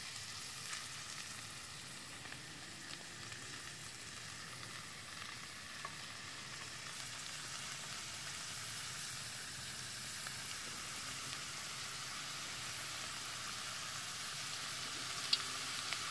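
Thin potato slices deep-frying in hot oil in a Dutch oven: a steady sizzle that grows a little louder toward the end, with a couple of sharp clicks near the end.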